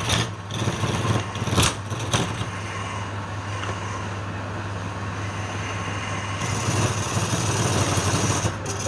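Wood lathe running with a steady motor hum while a tool works the spinning wood, with a few sharp knocks in the first two seconds. The hissing of the cut grows louder about six and a half seconds in.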